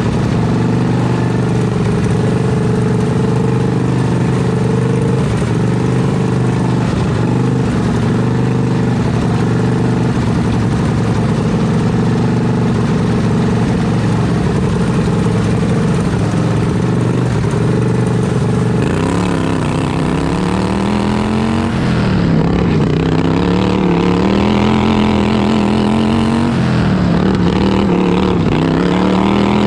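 Modified vertical-shaft V-twin engine of a racing lawn tractor, heard onboard. It holds a steady note for about the first two-thirds, then revs rise and fall repeatedly as the tractor accelerates and backs off around the track.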